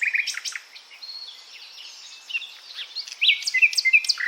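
Nightingale singing: a varied song of quick whistles and chirps, growing louder with a run of sharp, rapidly repeated notes from about three seconds in.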